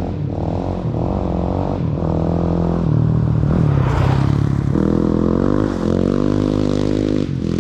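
Honda CRF450's single-cylinder four-stroke engine through an HGS exhaust, revving hard under acceleration. The note climbs and breaks off several times as the bike shifts up through the gears.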